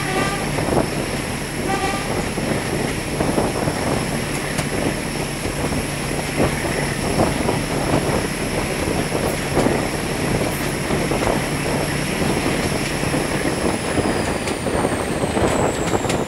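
Heritage passenger train hauled by a Class 14 diesel-hydraulic locomotive running along the line, heard from a carriage window: a steady rumble of the coaches with irregular clicks and knocks of the wheels over the track, and a low engine hum that fades out about three-quarters of the way through.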